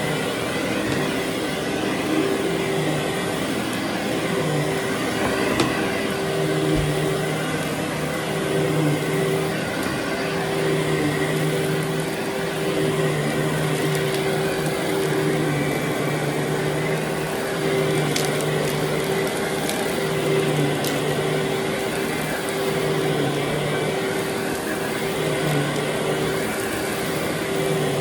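Vacuum cleaner running steadily over carpet, a constant whine with a lower hum that comes and goes every second or two.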